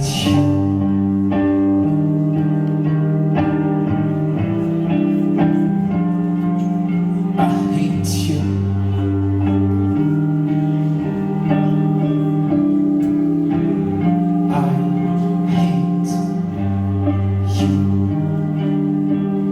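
Rock band playing live: guitars ringing out held chords over a repeating bass line, with a few cymbal-like crashes along the way.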